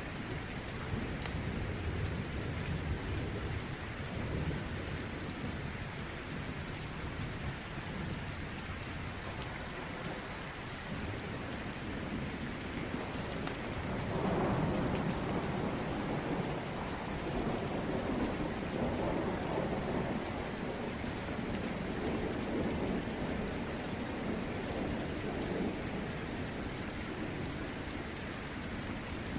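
Steady rain falling. About halfway through, a long rolling rumble of thunder swells up, lasts roughly ten seconds, and dies away gradually.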